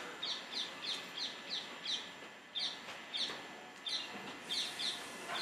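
A bird calling over and over in short, high, downslurred chirps, about three a second, with a couple of brief pauses, over a faint steady hiss.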